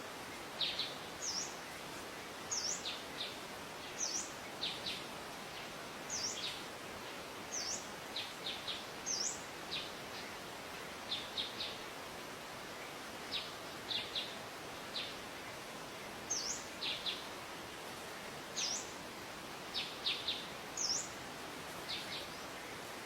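Birds calling: short, high chirps, often in quick groups of two or three, repeating every second or so over a steady background hiss.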